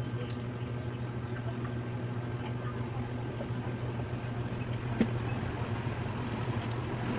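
Steady low background hum, with a single sharp click about five seconds in.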